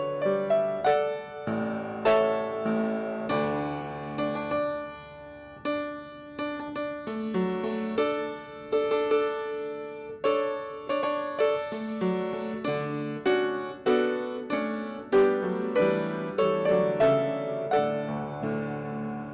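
Solo piano playing a slow hymn-like piece in chords, each struck note dying away.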